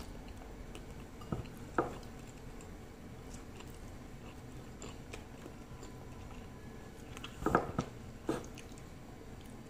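A person chewing a mouthful of nasi tiwul, steamed cassava rice eaten by hand, with a few short clicks and knocks: two about one and a half seconds in and a small cluster near the end. Underneath is a steady low room hum.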